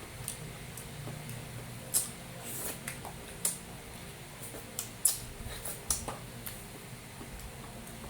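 Close-miked eating of beef kare-kare with rice: wet chewing and mouth smacks with a scatter of sharp clicks, a few much louder than the rest, over a low steady hum.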